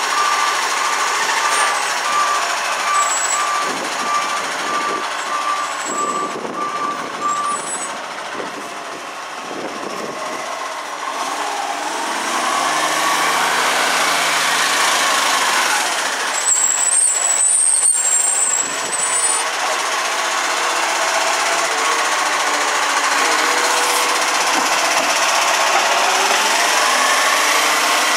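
MacDonald Johnston Gen V side-loader garbage truck on an Iveco Acco chassis running, its reversing beeper sounding in repeated beeps for about the first seven seconds, then stopping. The engine and working noise carry on underneath, with a few brief high whistles past the middle.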